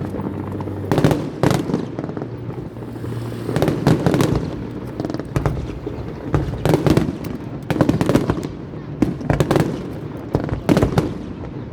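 Aerial fireworks shells bursting in quick, irregular succession, several loud bangs a second with crackle between them.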